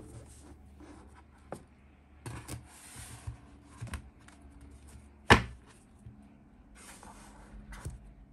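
Stacks of paper memo pads being handled and set into a plastic storage basket: soft paper rustling and light taps, with one sharper knock about five seconds in.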